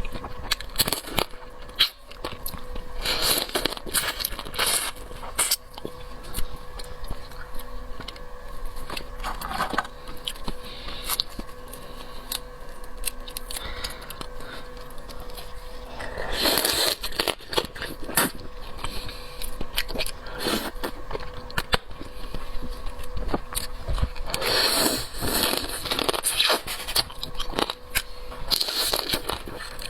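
Close-up eating of crab in its shell: irregular cracking, scraping and crunching with chewing, and several louder bursts of a second or so.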